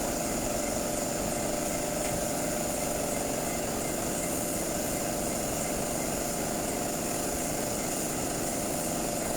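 A motor-driven machine running steadily with an even hum and a high whine, with no change in speed.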